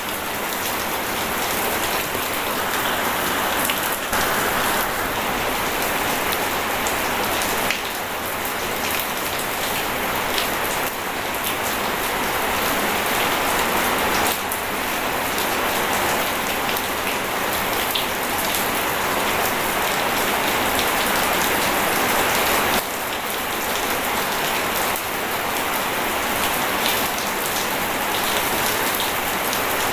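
Steady rain and running water: a continuous rushing hiss with scattered small drop ticks. The texture shifts abruptly a few times, notably about 8 s and 23 s in.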